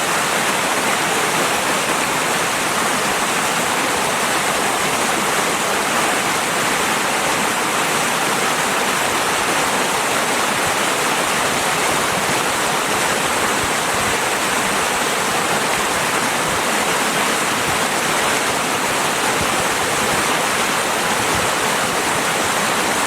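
Flowing river water, a steady, even rush with no change.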